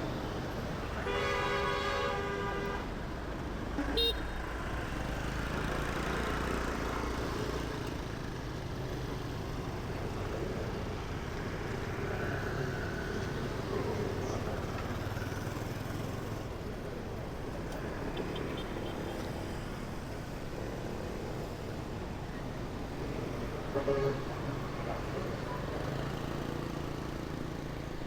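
Continuous city street traffic heard from a bicycle amid the vehicles. About a second in, a vehicle horn sounds for nearly two seconds, and there are a couple of brief beeps later.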